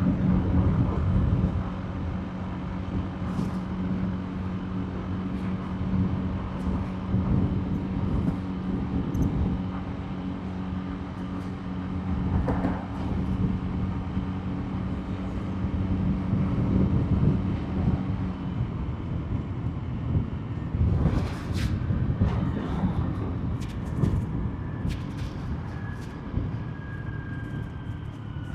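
Motorbike engine running at a steady cruise with a constant hum, over rushing road noise. The hum fades after about 18 seconds, and a louder swell rises and passes around 21 seconds in.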